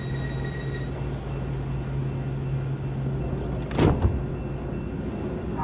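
Light-rail train standing at the platform as its doors close: a steady low hum, a steady high warning tone that stops about a second in, and one sharp knock about four seconds in.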